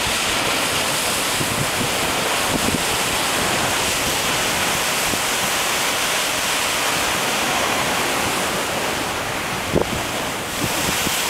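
Steady rush of ocean surf mixed with wind buffeting the microphone, with a few brief low thumps, most of them near the end.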